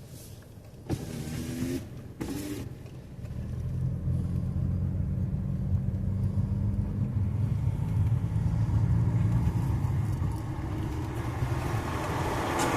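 A vehicle engine running at low speed while creeping along, a steady low hum that grows louder about three seconds in.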